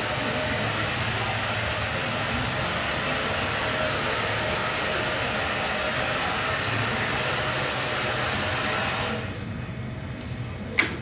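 Hair dryer blowing steadily, then switched off about nine seconds in, followed by a single sharp click near the end.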